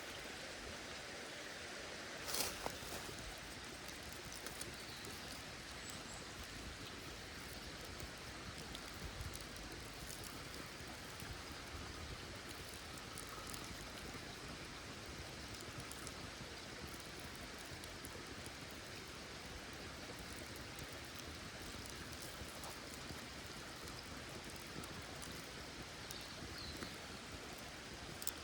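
A small stream running steadily. One brief knock comes about two seconds in.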